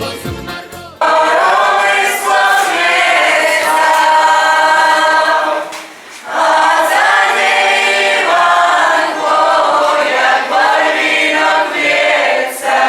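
A group of voices singing unaccompanied, in two long phrases with a short break about six seconds in.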